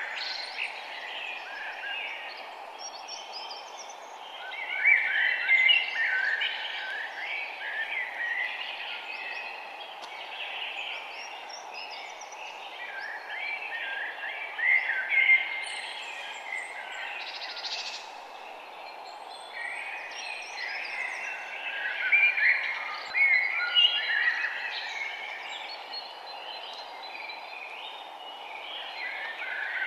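Several birds singing and chirping in a forest chorus, in bursts of quick warbling phrases, over a steady background hiss.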